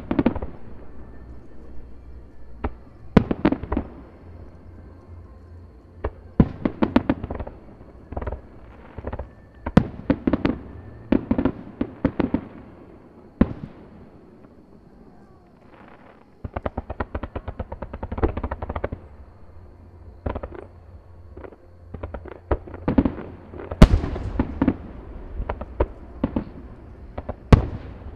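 Aerial fireworks bursting: clusters of sharp bangs and rapid crackling with echoing rumbles, a short lull about halfway, then dense crackling and one loudest bang near the end.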